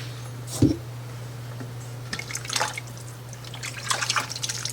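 A pot of soupy baked beans being stirred with a spoon: wet sloshing and a few sharp spoon taps in two short spells, over a steady low hum.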